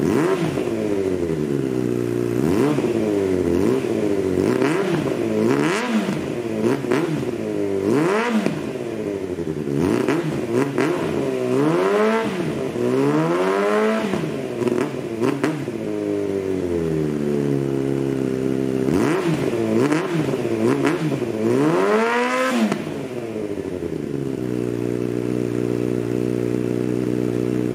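2003 Yamaha YZF-R1's inline-four engine idling through an aftermarket slip-on exhaust and being revved again and again, each throttle blip rising and falling back to idle.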